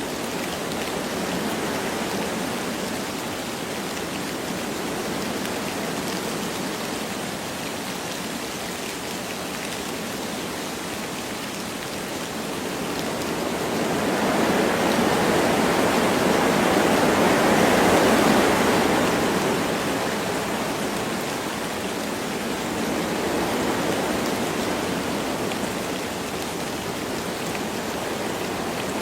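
Wind blowing through forest trees with light rain, a steady rushing. A gust swells about halfway through and dies back down.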